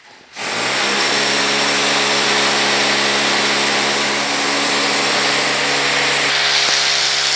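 A power tool's electric motor switches on abruptly about half a second in and runs loud and steady with a constant hum; its sound shifts slightly near the end.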